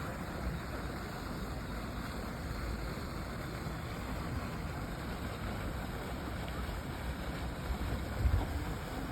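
Steady outdoor rush of wind with uneven buffeting on the microphone, and a stronger gust near the end.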